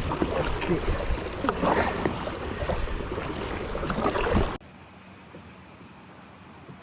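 Water splashing and sloshing around a kayak at sea, with wind rumbling on the microphone. It cuts off abruptly about four and a half seconds in to a quieter, steady hiss of wind and sea.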